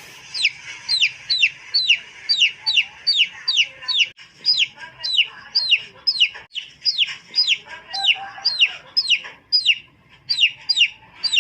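A bird calling in a rapid, even series of short, high, downward-sweeping calls, about two and a half a second.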